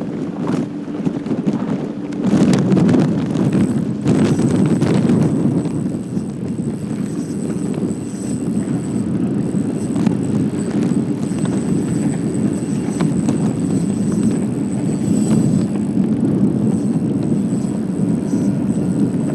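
Bass boat under way on open water: a steady motor drone with wind on the microphone and water knocking against the hull.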